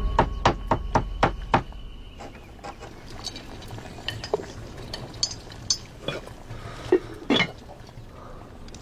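A quick, even run of six sharp knocks, then scattered light clinks and taps of small hard objects being handled, with two louder knocks near the end.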